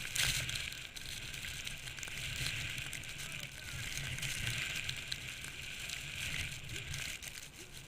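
Blizzard wind gusting across the microphone: a low buffeting rumble under a steady hiss of wind-blown snow.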